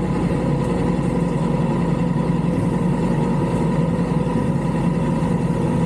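Motorcycle engine running at a steady speed, an even drone that holds the same pitch throughout.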